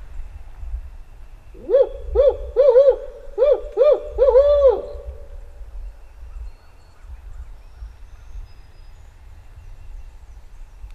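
Barred owl hooting: a rhythmic run of about eight hoots lasting some three seconds, ending on a longer note that drops in pitch, in the 'who-cooks-for-you, who-cooks-for-you-all' pattern. Turkey hunters use this call before dawn to set gobblers off.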